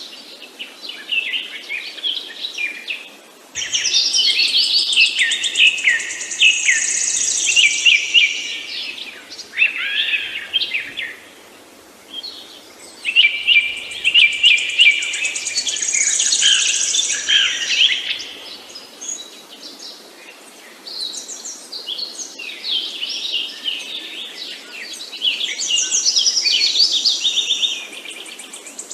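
Several small birds chirping and singing over one another, quick high trills and twitters, coming in bouts with short lulls between.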